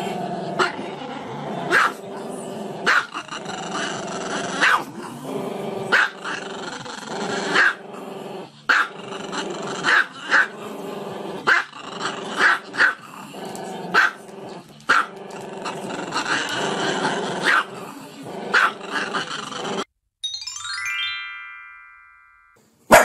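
A small dog howling along with music. About twenty seconds in, it cuts to a short sound effect of chime-like tones stepping down in pitch, ending in a click.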